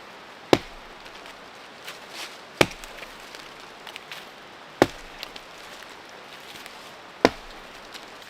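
Firewood being chopped: four sharp, single blows a little over two seconds apart.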